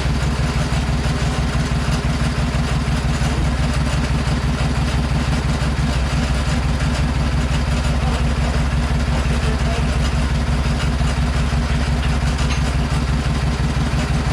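An engine idling steadily with a fast, even pulse that stays unchanged throughout.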